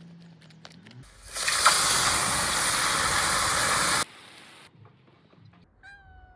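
Food sizzling loudly in a hot frying pan for about three seconds, starting and stopping abruptly. A chick gives a single short peep near the end.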